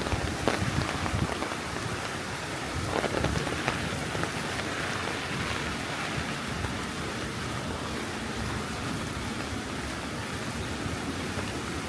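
Heavy rain falling steadily on the ground and surfaces, with a few brief low knocks or rumbles in the first few seconds.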